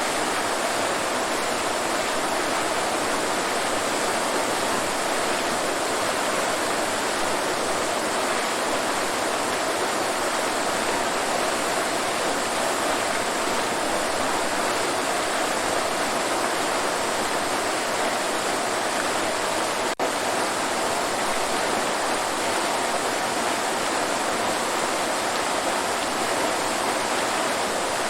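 Waterfall: a steady, even rush of falling water, with a momentary dropout about two-thirds of the way through.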